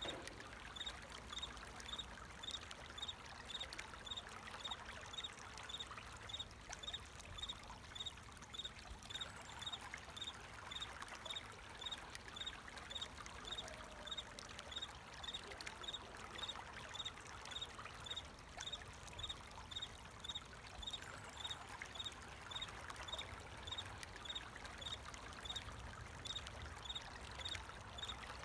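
Flowing water trickling steadily, with a cricket chirping in a regular high-pitched pulse about twice a second.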